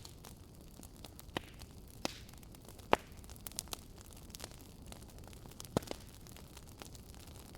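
Wood fire crackling: scattered sharp pops at irregular intervals over a low steady hiss, the loudest about three seconds in.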